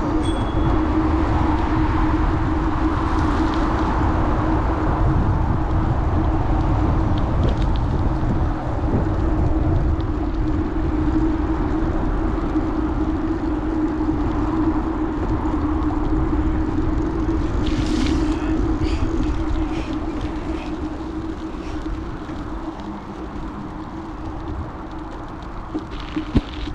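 Wind rushing over an action camera's microphone and bicycle tyres rolling while riding, with a steady hum running through it. A few light clicks come about two-thirds of the way in, and the noise eases somewhat near the end.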